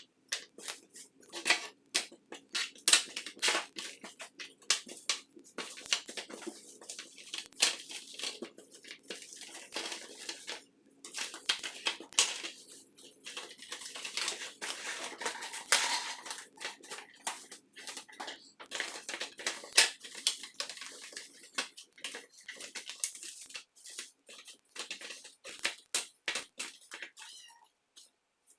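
Irregular scraping and clicking from hand work on small metal and plastic parts, with short pauses.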